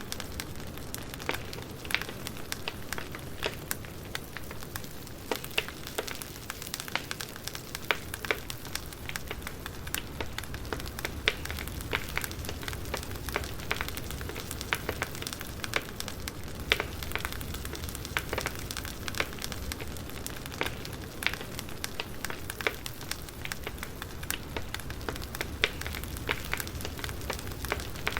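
Crackling wood fire: a steady soft hiss broken by frequent, irregular sharp pops and snaps.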